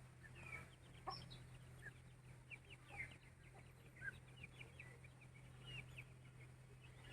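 Faint chicken calls: scattered short, high chirps that slide down in pitch, with an occasional brief cluck, over a steady low hum.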